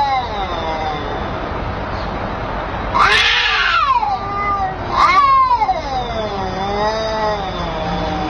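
A cat meowing in long, drawn-out yowls that rise and fall in pitch: one trailing off at the start, then two more starting about three and five seconds in.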